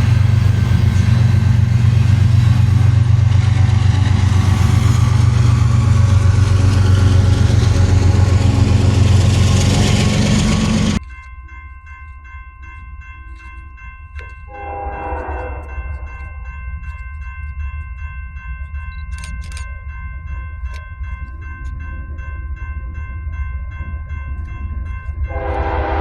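Train passing close, its diesel locomotive engine giving a loud, deep drone, which cuts off abruptly about eleven seconds in. A quieter stretch follows, holding a steady chord of several high tones and two short stacked-tone sounds, one about fifteen seconds in and one near the end.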